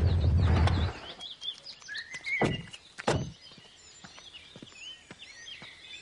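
Birds chirping and calling in short, quick notes after a loud low rumble cuts off about a second in, with two sharp thuds near the middle.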